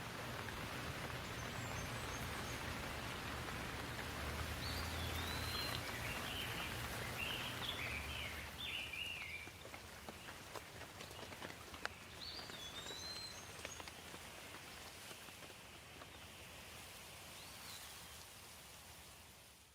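Steady rain falling, with a low rumble underneath. A bird sings short chirping phrases over it several times, most busily about a quarter of the way in and again past the middle. The sound eases down near the end.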